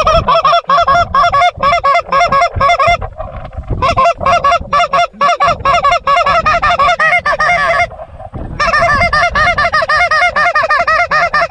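Fast, loud Canada goose clucks and honks, about five a second, in three long runs broken by short pauses about three and eight seconds in.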